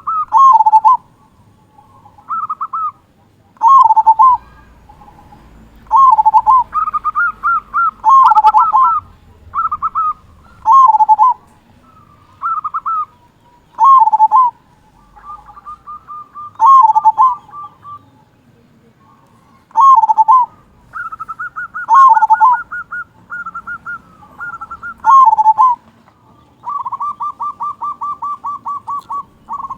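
Zebra dove (perkutut) cooing loudly: repeated phrases of quick rolling notes that end in a deep 'kung' coo, every one to two seconds, with longer fast trills of many short notes near the middle and near the end.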